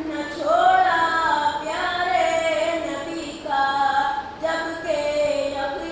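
A naat sung solo in a high voice, unaccompanied, in long held phrases with ornamented pitch bends and short breaks between lines.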